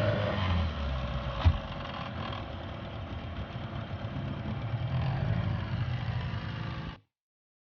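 Vehicle engine running on the road, a steady low rumble, with one sharp knock about a second and a half in. The sound cuts off abruptly near the end.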